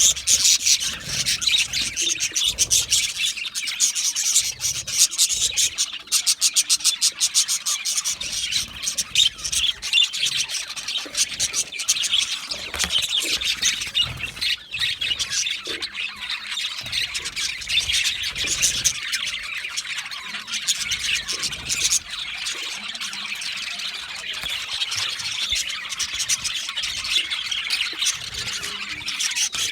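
A flock of budgerigars chattering together: a dense mix of chirps, warbles and squawks that never lets up.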